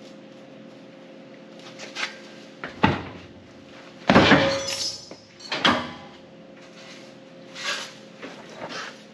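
A handful of sharp metallic clanks and rattles from sheet metal being cut and handled on shop equipment, the loudest about four seconds in with a short ring, over a steady low hum.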